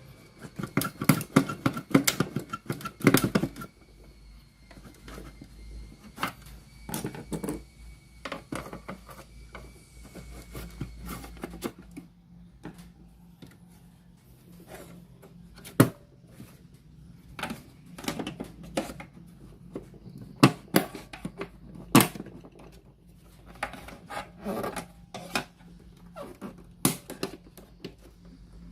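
Irregular clicks, taps and clatter of hands and tools working on a radio cassette player, over a faint steady hum. The clicks come in dense clusters near the start, in the middle and near the end, with single sharp knocks between them.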